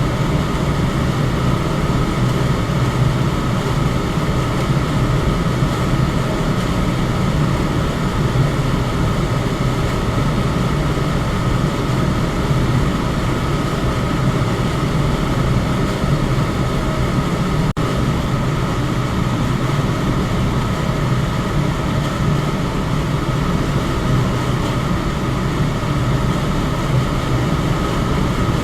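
Electric fan running steadily: an even rush of air over a low hum, with a faint steady tone above it. The sound drops out for a split second about two-thirds of the way through.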